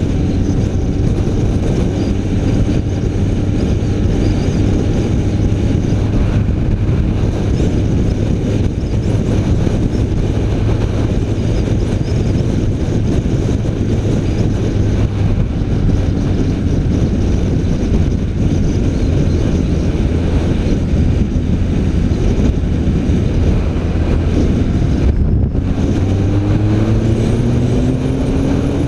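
BMW K1300R's inline-four engine running at a steady pace as the bike rides along, with the engine note climbing over the last few seconds as it accelerates.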